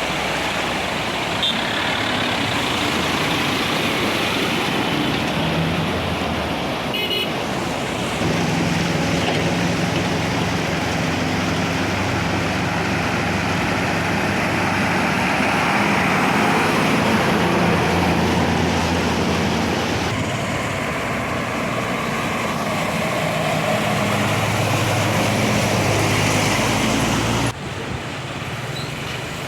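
Road vehicles' engines running as they drive through floodwater, over a steady rush of water and traffic noise, with horn toots. The mix changes abruptly about 20 and 27 seconds in.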